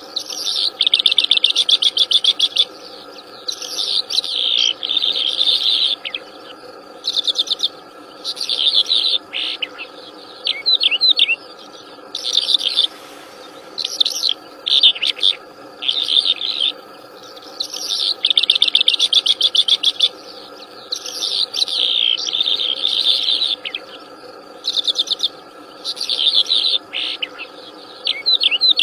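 A wild songbird singing loudly and persistently: fast, chattering, trilled phrases of one to three seconds, repeated again and again with short pauses between them, over a steady low background drone.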